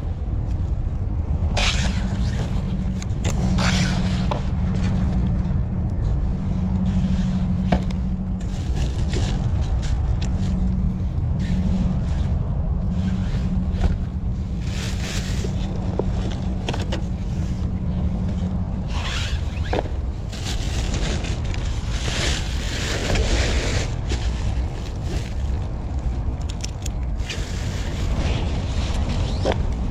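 Rustling, scraping and light knocks of items being handled and rummaged through, over a steady low rumble with a hum that stops about two-thirds of the way through.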